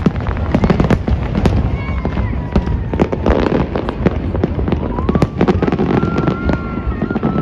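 Fireworks display bursting in a dense, continuous string of bangs and crackles, many reports a second.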